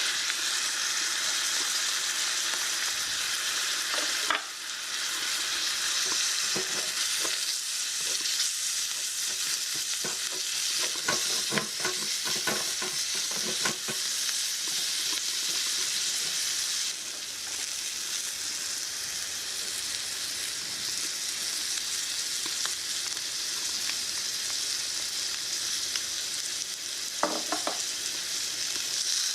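Food sizzling in oil in a tiny frying pan while it is stirred, with small utensil taps and scrapes on the pan, most of them in a run through the middle and a couple more near the end.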